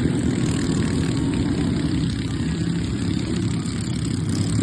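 Small engines of racing riding lawnmowers running hard, a steady engine drone that eases slightly in the middle.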